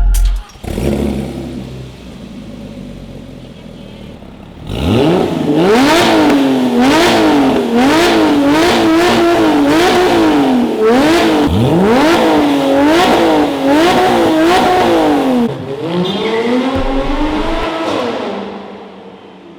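Porsche 987.2 Cayman's flat-six engine through an Armytrix valvetronic cat-back exhaust, revving hard from a quieter idle about five seconds in. The revs then rise and fall repeatedly with quick throttle blips, drop away, and rise once more before dying down near the end.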